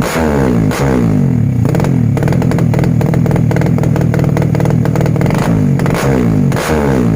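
Motorcycle fitted with a stainless-steel aftermarket exhaust being revved in short throttle blips, the engine note falling back after each one. In the middle it holds a steady note for a few seconds with a rapid crackle before two more blips near the end.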